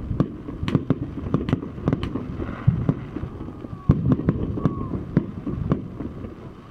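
Aerial fireworks bursting overhead, a rapid irregular series of sharp bangs and pops.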